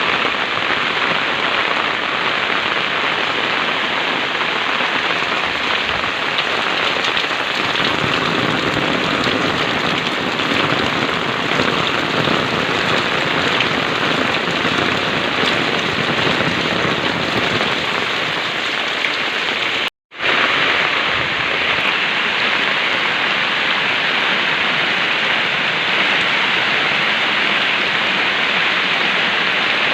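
Heavy rain pouring down steadily, an even dense hiss, with a momentary cut to silence about two-thirds of the way through.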